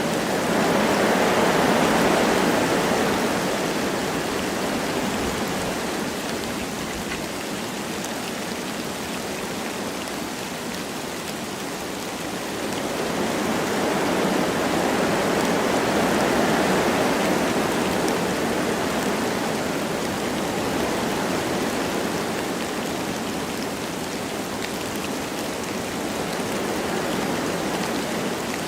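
Wind blowing through forest trees with light rain, a steady rushing that swells in two slow gusts, a couple of seconds in and again about halfway through.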